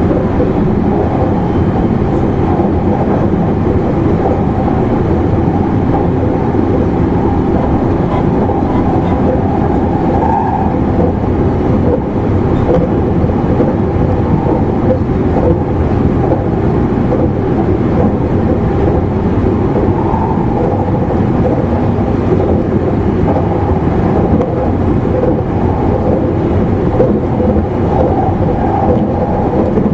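Cabin running noise inside an E259 series Narita Express motor car at speed: a steady, loud rumble of wheels and track, with a faint steady hum from the drive running under it.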